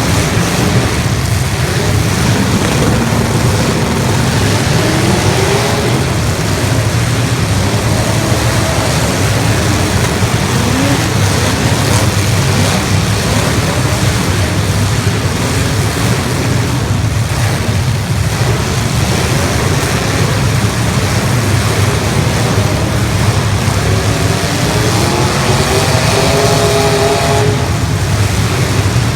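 Demolition derby cars' engines running loudly together, with individual engines revving up and down now and then.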